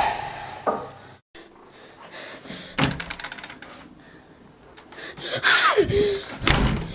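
An interior door being handled: scattered knocks and thuds from the door and frame, a falling squeak near the end, then a louder thud just after it.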